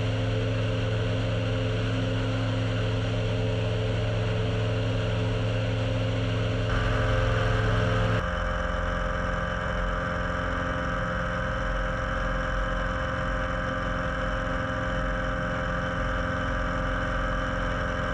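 Piper Super Cub floatplane's piston engine and propeller droning steadily, heard from inside the cockpit while climbing out. A little after the middle the tone shifts, the deep low note dropping away and the level falling slightly.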